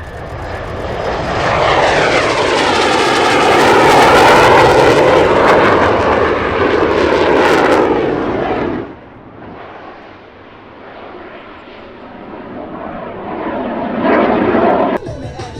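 Aircraft engine noise as a plane flies past, building to a loud peak with a sweeping, whooshing sound. It cuts off abruptly about nine seconds in. A quieter aircraft engine sound then builds until a second sudden cut near the end.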